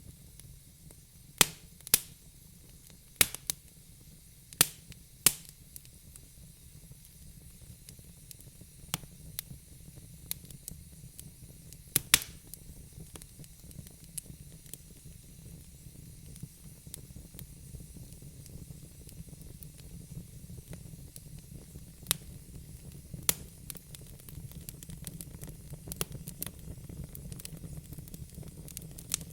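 Wood fire crackling in a fireplace: sharp, irregular pops and snaps over a steady low rumble of the flames. The pops come thick and fast in the first few seconds, thin out, then come again twice a little past the middle.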